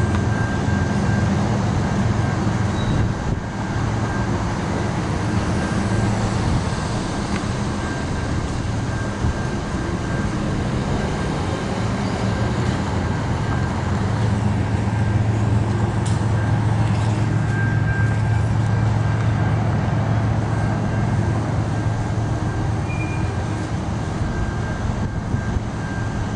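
Freight train of tank cars rolling past over a level crossing: a steady, continuous rumble of wheels on rail with a low hum underneath and a thin high tone held throughout.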